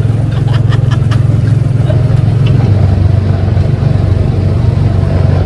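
Tomorrowland Speedway car's small gasoline engine running steadily at cruising speed, a loud, even low drone heard from the open seat of the car.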